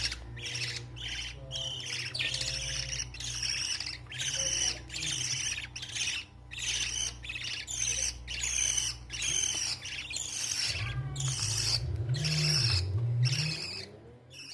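Budgerigar chicks giving rapid, raspy begging calls, about two a second, while being fed, over a low steady hum.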